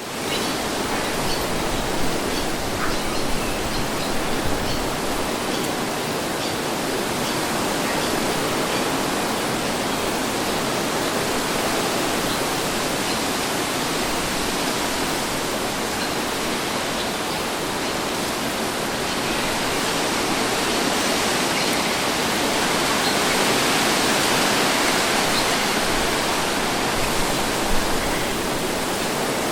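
Wind blowing steadily, an even rush with no gusts or breaks, swelling slightly about three-quarters of the way through.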